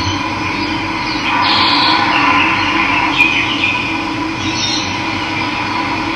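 Steady rush of running water with birds chirping over it in short calls, the busiest stretch a little past a second in.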